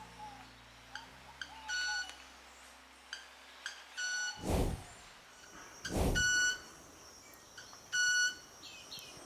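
Club-winged manakin wing sonation, made by rubbing its specialized wing feathers together. One or two short sharp ticks are each followed by a clear, metallic, violin-like ringing note. The pattern repeats four times, about two seconds apart.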